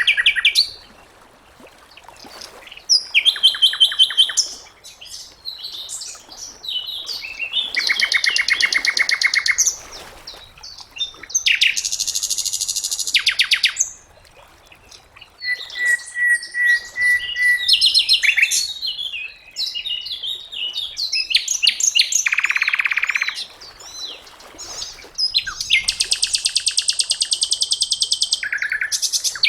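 Sikatan londo, a songbird of the flycatcher family, singing in varied bursts of fast trills, rattling buzzes and high chirps with short pauses between them, with one long steady whistle around the middle.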